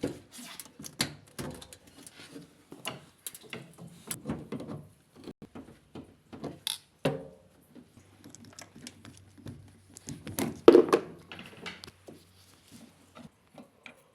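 A series of irregular clicks, taps and knocks, with a faint low hum for a few seconds after the middle. The loudest knock comes about three-quarters of the way through.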